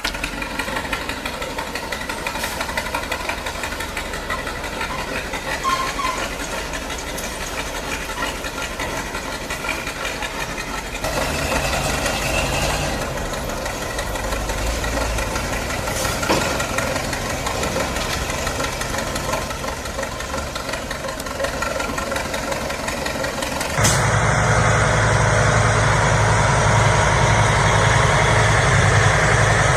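Heavy-equipment engine running steadily. The sound changes abruptly about 11 seconds in, and again about 24 seconds in, when it turns louder with a strong low drone.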